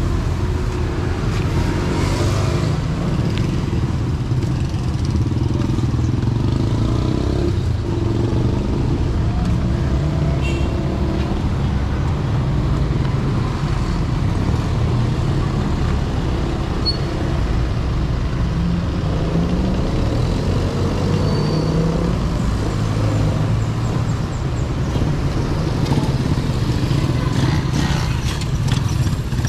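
Street traffic: vehicle engines, motorcycles among them, running and passing steadily, with an engine revving up briefly about two-thirds of the way through.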